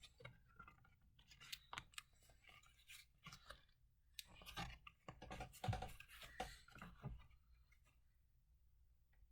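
Faint handling noise of irregular small clicks, scrapes and rustles, busiest from about halfway in, over a low steady hum.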